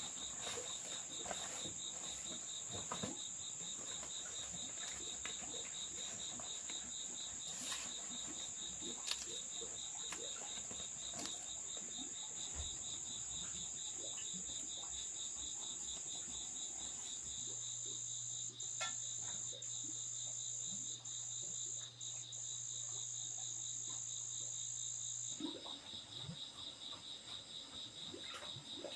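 Insects calling in a continuous chorus: a steady high-pitched trill over a faster pulsing buzz, with scattered small clicks. From about two-thirds of the way in, a low steady hum joins for several seconds and then stops abruptly.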